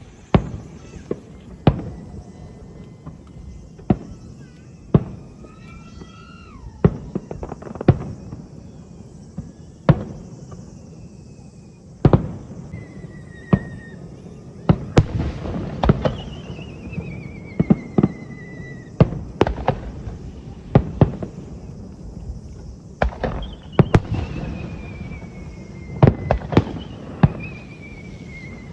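Aerial fireworks bursting in an irregular run of sharp bangs, one or two a second, over a low rumble. Several long whistles gliding down in pitch sound among them, from whistling fireworks shells.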